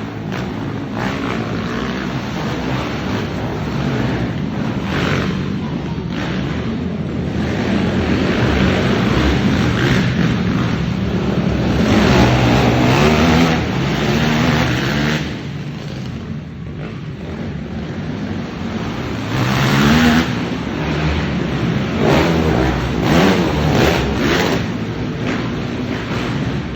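Several racing ATV engines revving hard and backing off as they race, their pitch rising and falling again and again. It is loudest around twelve to fourteen seconds in and again around twenty seconds, with a quieter stretch in between.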